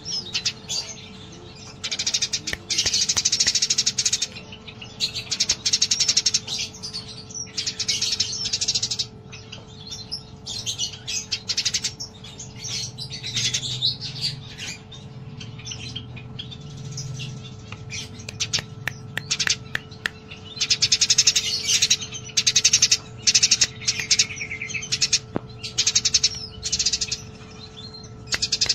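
Eurasian tree sparrows chirping and chattering rapidly in repeated bursts with short gaps, the agitated calling of sparrows squabbling.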